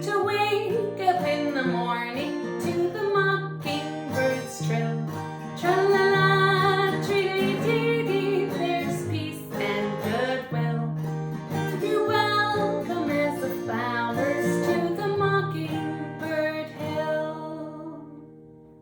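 A woman singing to a strummed acoustic guitar; near the end the music dies away.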